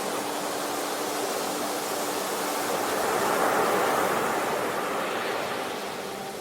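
Sea waves washing in. One swell builds about halfway through and then falls away.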